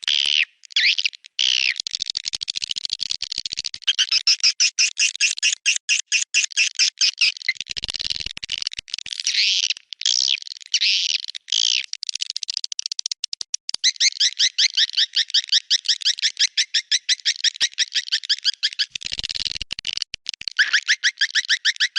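Swiftlet calls from a swiftlet-house lure recording: long trains of rapid, evenly spaced twittering chirps, about ten a second, broken now and then by longer swooping calls.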